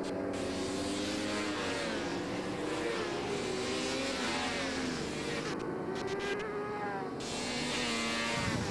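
Several four-stroke racing superbike engines running at high revs, their pitch rising and falling as the riders work through the gears.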